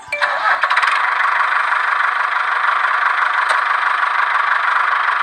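Small electric motor and gearing of a toy model tractor running, a steady buzzing, rattling drone that starts just after the beginning.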